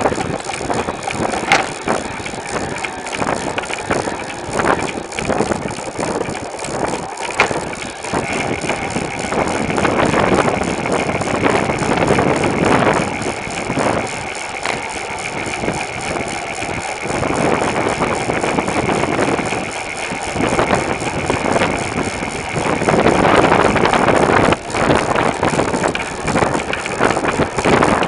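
Wind rushing over the microphone of a bicycle-mounted camera while riding, with road noise and small rattles and clicks from the bike and mount.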